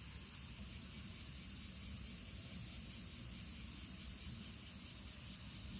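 Steady, high-pitched insect chorus, crickets chirring without a break, over a low rumble.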